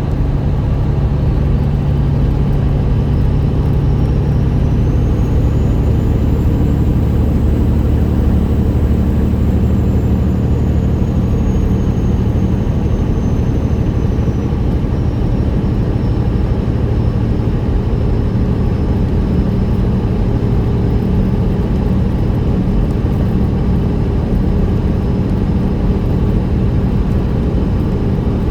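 Straight-piped Detroit Series 60 diesel of a 1999 Peterbilt 379 running steadily under way, its note shifting a few times and sitting higher in the later part. A faint high whistle rises and falls in the first half.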